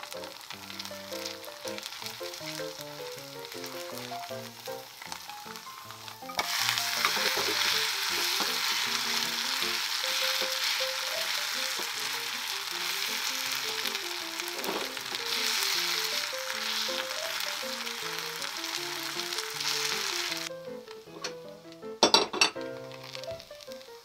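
Shredded-potato frico frying in a small pan over low heat: a quiet sizzle that turns loud and steady about six seconds in, once the cake has been flipped to cook its second side. The sizzle cuts off about twenty seconds in, followed by a couple of sharp knocks.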